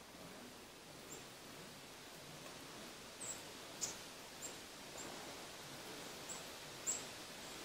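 Quiet outdoor ambience with about seven short, high bird chirps scattered a second or so apart.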